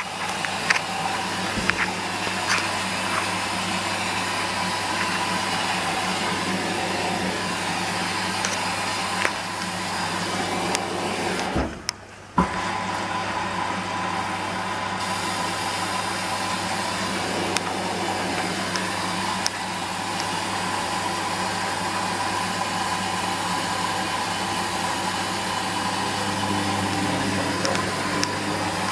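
Hoover Dynamic washing machine in its fourth rinse: the drum motor runs with a steady hum, under water swishing and small clicks and knocks from the tumbling drum. It cuts out briefly about twelve seconds in.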